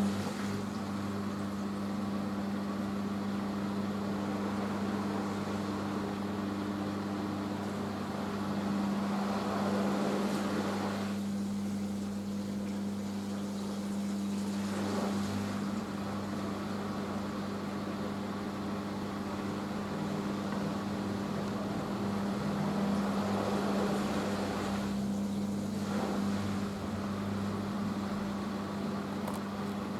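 Hoover H-Wash 500 washing machine during its rinse spin: a steady motor hum with a rushing noise that swells twice, about ten seconds in and again past twenty seconds.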